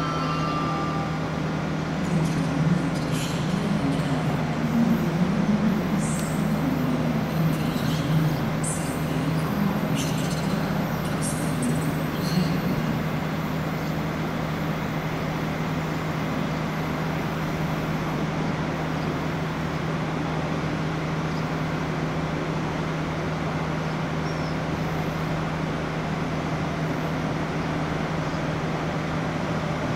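Electric trains at a railway station: a steady low hum, with a run of light metallic clicks and short squeals between about two and thirteen seconds in.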